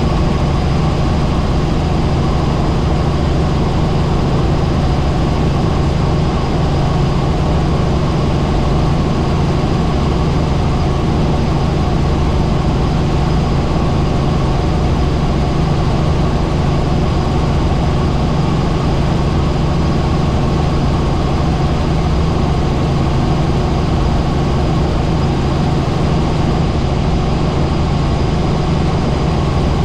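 Helicopter running in flight: a loud, steady drone of engine and rotor with a strong low hum, unchanging throughout.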